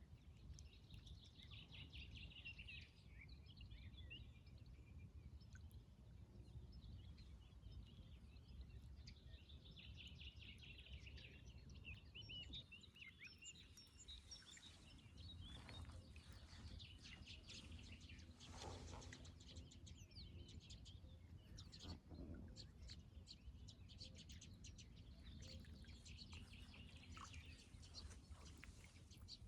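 Faint songbirds chirping and trilling on and off, over a steady low background rumble.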